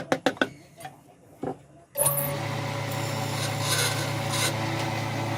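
A few quick taps on wood, then about two seconds in a power tool starts and runs steadily, working the wood.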